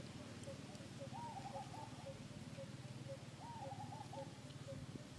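Birds calling in the background: one repeats a short low note about twice a second, and another gives two brief warbling calls, about a second in and again a little past halfway.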